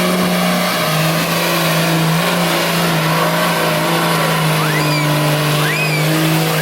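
Off-road 4x4 vehicle engine running with a steady, even drone.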